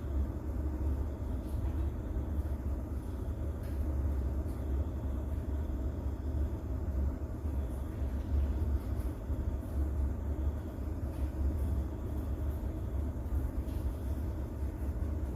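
Rain-and-thunder ambience: a steady, deep rumble, with faint scattered rain patter above it.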